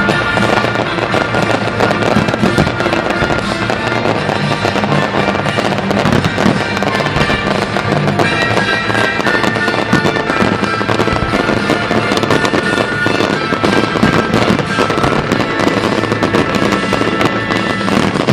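A fireworks display going off in a dense, continuous string of bangs and crackles, with music playing along with it.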